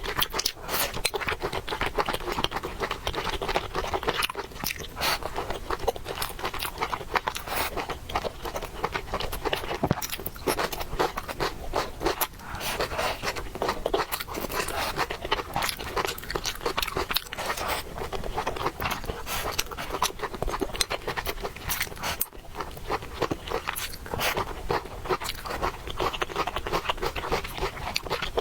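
A person eating noodles and fried eggs: chewing and biting, with many small, irregular crackling clicks.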